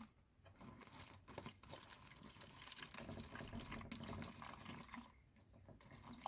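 Pre-mixed two-stroke fuel trickling faintly into a small chainsaw fuel tank as it is filled.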